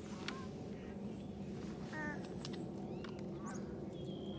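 Ducks quacking, with a short run of quacks about two seconds in, and small birds giving brief high chirps over a steady low background murmur.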